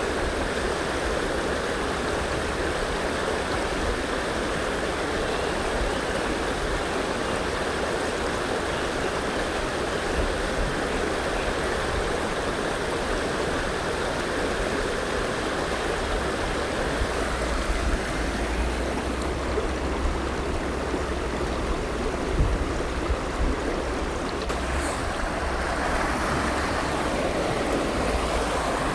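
River water flowing steadily, an even rushing sound, with a few small surges in the second half.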